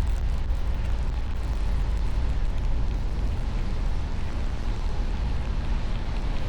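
Car driving, a steady low rumble with road noise and no change in pace.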